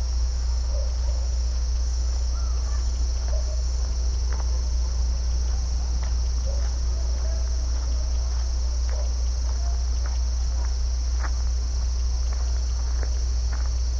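Crickets in a steady chorus, a continuous high-pitched trill, over a constant low rumble. Faint short chirps and ticks are scattered through it.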